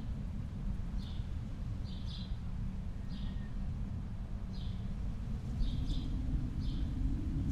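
A bird repeating a short high chirp about once a second, sometimes doubled, over a steady low rumble of ambient noise.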